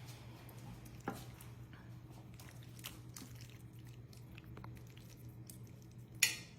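A person quietly chewing a taste of creamy chicken stew, with a few faint clicks and one sharper click near the end, over a steady low hum.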